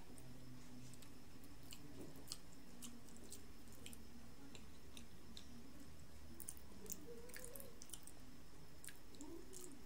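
Close-miked chewing of soft avocado slices, with small wet mouth clicks and smacks scattered throughout.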